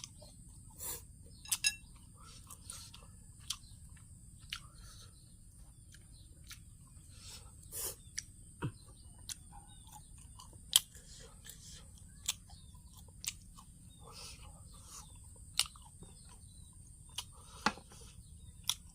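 Close-up eating sounds of papaya salad and grilled shellfish: chewing and crunching, with irregular sharp clicks and smacks.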